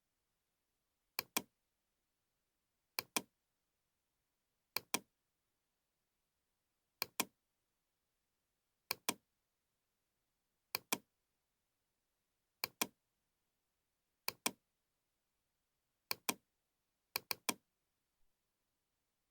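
Computer mouse clicking: a quick double click about every two seconds, with near silence between, and a group of three clicks near the end.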